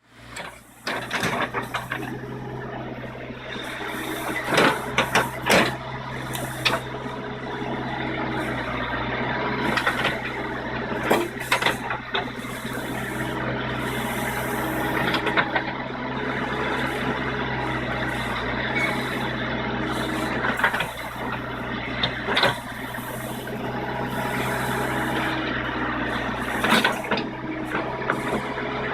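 JCB 214 Series 2 backhoe loader's diesel engine running steadily under working load, with sharp metallic clanks every few seconds.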